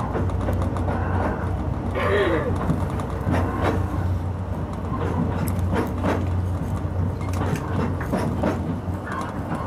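Oigawa Railway Ikawa Line train running, heard from the front of the train: a steady low hum with irregular clicks and knocks from the wheels on the rails, and a short wavering tone about two seconds in.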